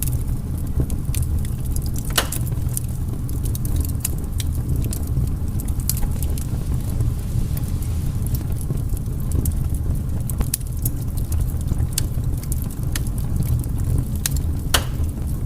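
Burning firewood crackling: frequent sharp pops and snaps over a steady low rumble, with louder pops about two seconds in and near the end.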